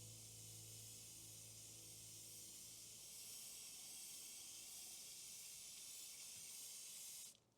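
Airbrush spraying gloss varnish: a steady, faint, high hiss of air and paint that cuts off suddenly near the end as the trigger is released.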